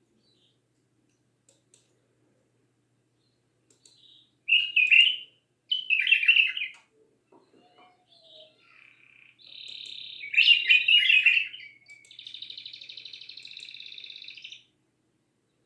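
A songbird singing: after a few seconds without sound, short bright warbled phrases, a louder run of notes, then a long, even rapid trill that stops a little before the end.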